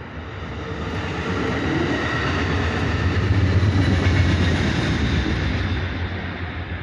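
A passing vehicle: a loud, deep rumbling noise that builds to a peak about three to four seconds in and then fades away.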